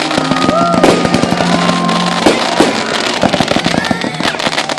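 Fireworks bursting and crackling in rapid, dense succession.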